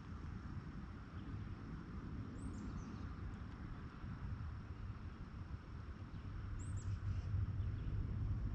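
Outdoor creekside ambience: a steady low rumble and hiss, with a bird giving a short, high, falling chirp twice, about two and a half and seven seconds in.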